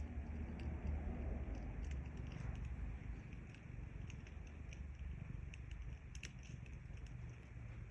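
A sleeping cat purring with a low, continuous rumble, over the scattered small crackles and pops of a fire.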